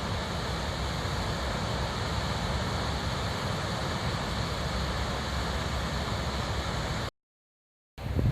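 Wind buffeting the microphone over a steady rushing hiss, cut by a sudden dropout to silence about seven seconds in.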